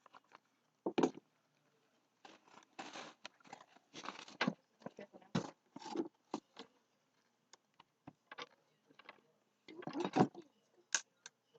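Irregular scraping and knocking of wooden sticks being handled and cut with a small knife, in short bursts with a louder cluster near the end.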